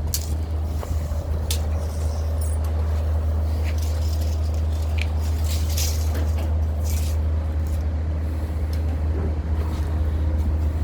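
An engine running steadily with a low drone, with a few light metal clinks and taps over it.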